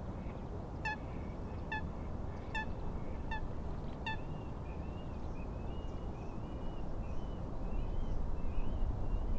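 A bird gives five short, evenly spaced honking calls, followed by a long wavering, warbling song, over a steady low rush of wind.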